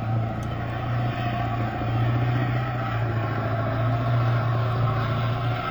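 Truck engine running with a steady deep drone.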